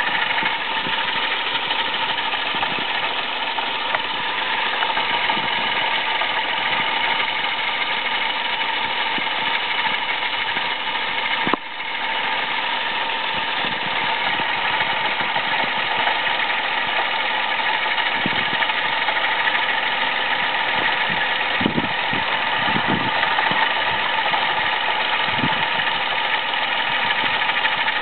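Toyota Aygo engine running steadily with the noise of its worn-out water pump, with a brief click and dropout about twelve seconds in.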